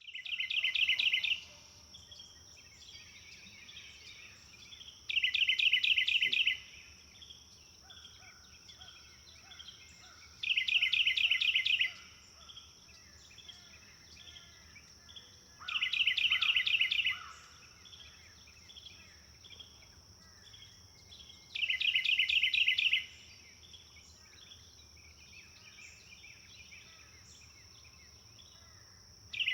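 Birdsong: one bird sings a loud, fast trill of rapidly repeated notes about every five and a half seconds, five times, with softer chirps of other birds between. A steady high-pitched drone, like an insect, runs underneath.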